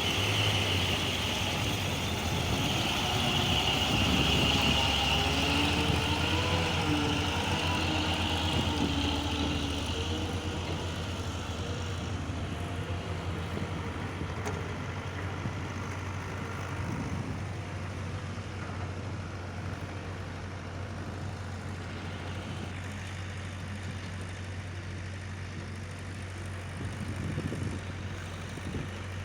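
Old Bedford truck's engine running, louder for about the first ten seconds, then quieter and steady.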